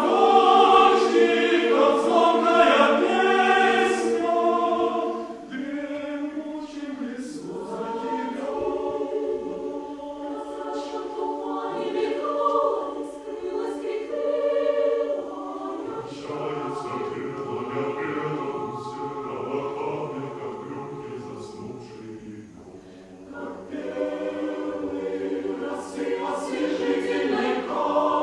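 Choir singing a cappella, a slow Russian choral piece: loud and full at the start, softer through the middle as lower voices come in, swelling again near the end.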